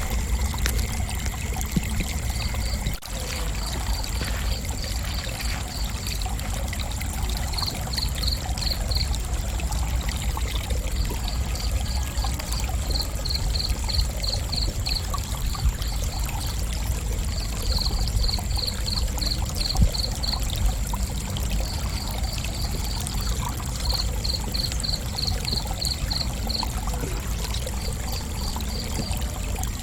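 Crickets chirping: groups of rapid, evenly spaced chirps recurring every few seconds, over a steady high-pitched insect trill. A low rumbling noise runs underneath.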